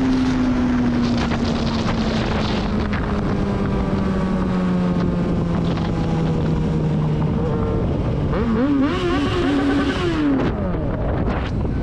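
Motorcycle engine heard from on board over wind noise on the microphone. Its note falls slowly and steadily for about seven seconds, then wavers up and down and drops away about three-quarters of the way through.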